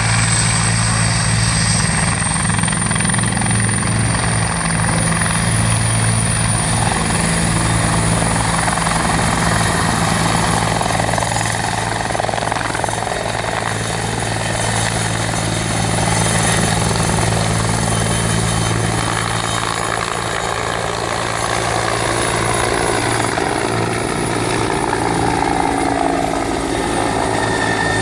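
Rescue helicopter running close by: a steady low rotor beat under a high turbine whine, which rises slightly in pitch over the first few seconds and then holds.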